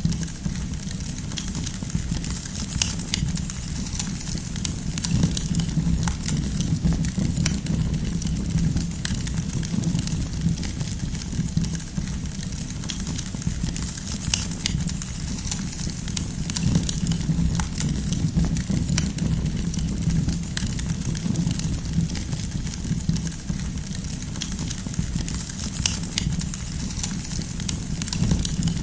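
Wood campfire crackling: irregular sharp pops and snaps over a steady low rumble of the burning fire.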